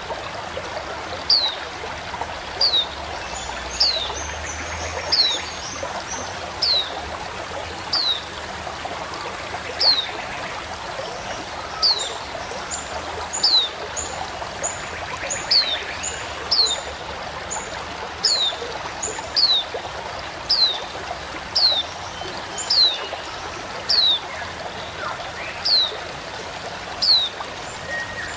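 White-eye (pleci) calling a short, high, falling note over and over, about once every second or so, with quick high chips between calls through the middle part. A stream runs steadily underneath.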